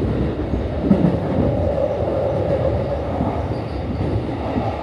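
Commuter train running, heard from inside the passenger car: a steady, loud rumble of wheels on rail and car noise.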